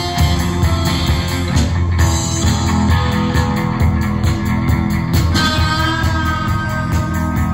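Rock band playing a psychedelic rock passage without vocals, guitar to the fore over a heavy bass end.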